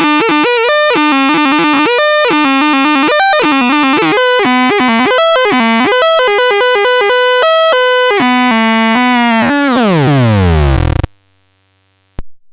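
Electronic synthesizer tones playing a fast run of buzzy, reedy notes. About ten seconds in, the whole sound slides steeply down in pitch and cuts off abruptly, followed a second later by a single click.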